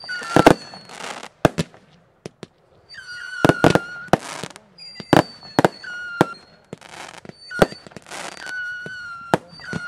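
Aerial fireworks display. Several whistles rise briefly and then hold a steady pitch for about a second each, mixed with sharp bangs from bursting shells and short bursts of hissing.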